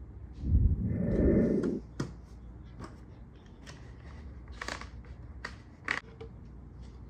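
Plastic motor-oil bottles and a funnel being handled: a low rumble lasting about a second and a half, then several sharp plastic clicks and taps.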